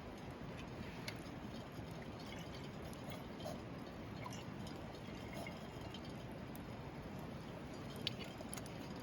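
Wood campfire crackling: a steady low hiss with small scattered pops, one sharper pop near the end.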